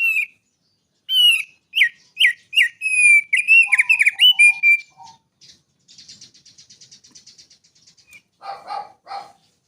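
Male thick-billed white-eye (opior paruh tebal) singing: a quick run of loud, sharp whistled notes that slur downward, then a fast buzzy trill, then a few harsher notes near the end.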